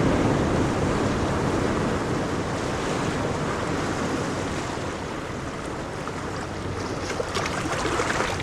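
Steady rushing of a fast-flowing river, a dense even roar of water, with a few faint ticks near the end.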